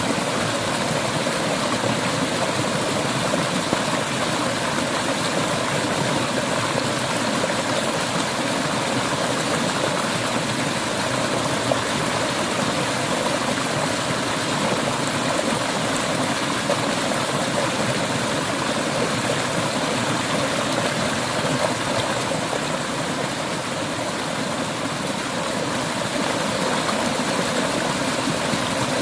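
Clear river water flowing and splashing over rocks, a steady rushing noise throughout.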